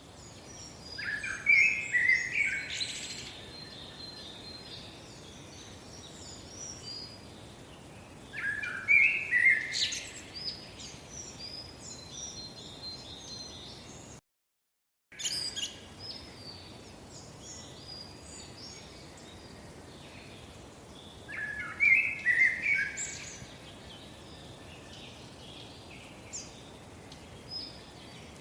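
Small birds chirping and twittering in three short clusters, over a steady faint hiss. The sound cuts out completely for about a second midway.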